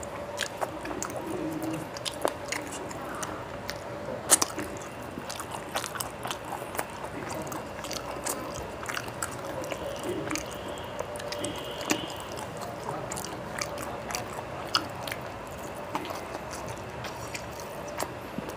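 A person chewing a mouthful of rice and fish curry eaten by hand, with many short, sharp mouth clicks and smacks throughout.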